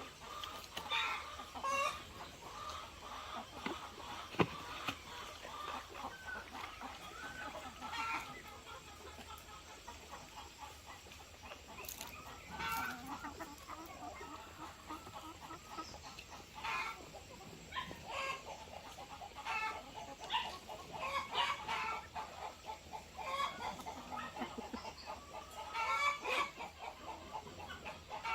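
A flock of chickens clucking, many short calls overlapping, with a rooster crowing now and then.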